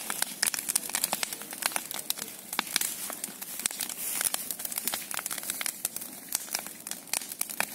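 Large bonfire crackling, with dense, irregular snaps and pops over a steady hiss.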